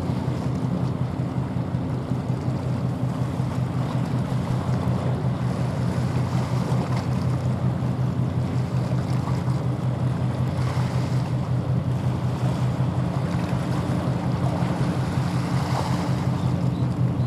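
Engines of a fishery patrol ship under way: a steady low throb with a fast, even pulse, over wind and water noise.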